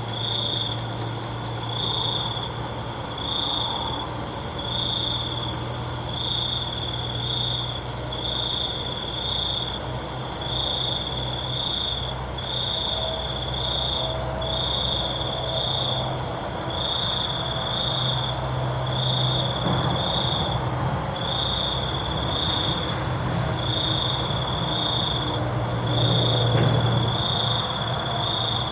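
Night chorus of crickets: one loud cricket gives a regular chirp about once a second, over a constant higher-pitched trilling of other insects. A low steady hum runs underneath.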